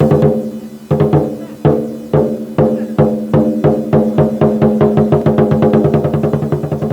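Chinese lion dance percussion: drum, gong and cymbals struck together with a ringing tone under each beat. The beat starts slow, about one stroke a second, and speeds up steadily into a fast roll.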